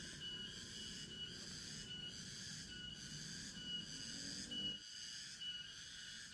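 Faint forest chorus of calling animals: a high-pitched trill that pulses about once every three-quarters of a second, over a low rumble. A brief rising sound comes a little past the middle, and the rumble dips for a moment just after it.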